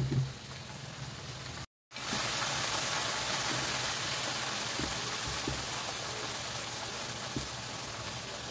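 Meat and green vegetables sizzling in a wok over a gas flame: a steady frying hiss, broken by a brief silence about two seconds in and louder after it. There is a knock at the start and a few light taps later.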